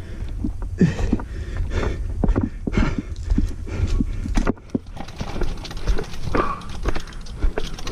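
Mountain bike rattling over rough trail ground: irregular knocks and clacks several times a second over a low rumble of wind on the camera, which eases about halfway through.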